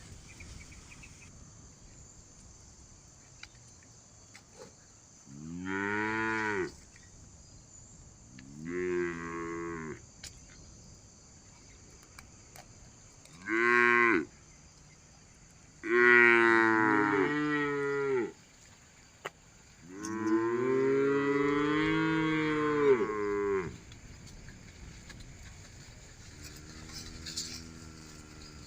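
Cows mooing: five loud, drawn-out calls with gaps between them, the longest lasting three to four seconds, each arching up and then down in pitch, and a fainter call near the end.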